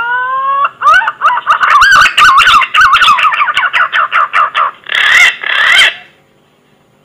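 Punai (green pigeon) whistling song used as a hunting lure call: a long rising whistle, then a fast run of wavering, warbling whistled notes, ending in two longer wavering notes about five seconds in.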